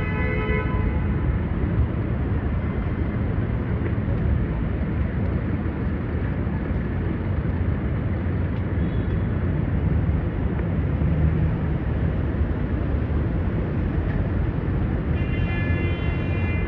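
Steady low rumble of city noise, like traffic or a train. A held, pitched tone, such as a horn or music, sounds for the first second or so and again near the end.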